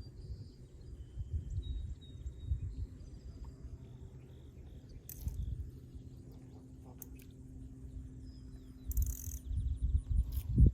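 Outdoor ambience: a steady low rumble with faint bird chirps and a couple of brief rustles about halfway through and near the end.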